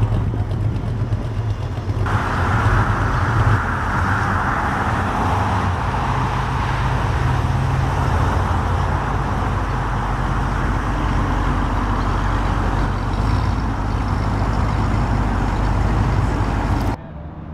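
Car engine running with a deep, steady low hum. From about two seconds in, a louder rushing noise joins it. The sound cuts off abruptly near the end.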